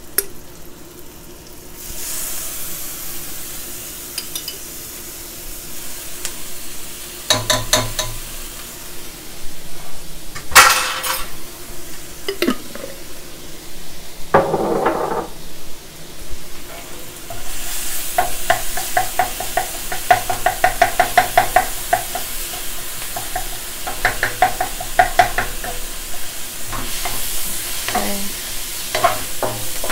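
Diced onions sizzling in oil in a wok, with a couple of louder knocks partway through. In the second half a wooden spatula stirs and scrapes against the pan in quick rhythmic strokes.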